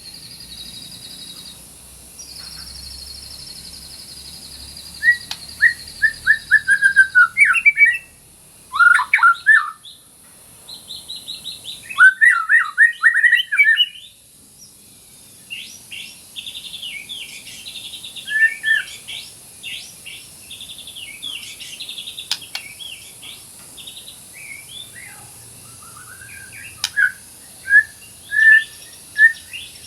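White-rumped shama (murai batu) singing: loud bursts of varied whistled phrases and long, fast chattering runs. A steady high trill runs through the first few seconds.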